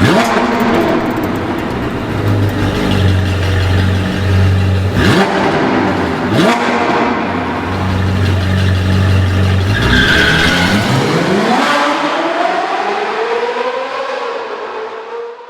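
Car engine running and revving, with two quick sweeping whooshes about five and six and a half seconds in. Its pitch climbs and then falls over the last few seconds before the sound fades out.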